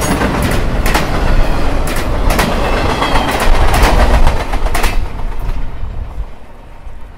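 Circus train flatcars rolling past at close range, the wheels clacking over rail joints over a heavy rumble. The last car goes by about five seconds in and the rumble fades away.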